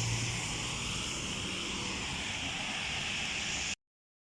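Steady rushing hiss of heavy rain and wind, which cuts off to dead silence near the end.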